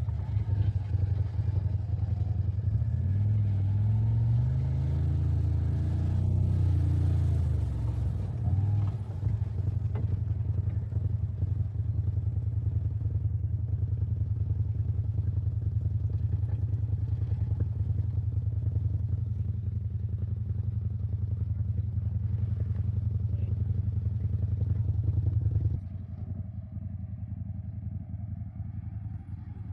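CFMoto off-road vehicle's engine running on the trail, its pitch rising and falling a few seconds in as the throttle is worked, then holding steady. It drops quieter near the end as the vehicle eases off.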